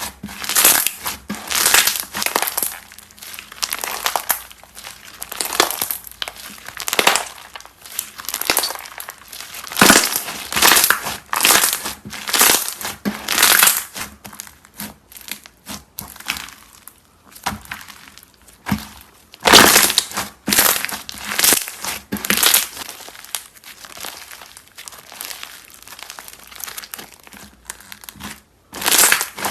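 Crunchy slime being pressed and squeezed by hand, crackling and crunching in irregular bursts, with a few quieter stretches between squeezes.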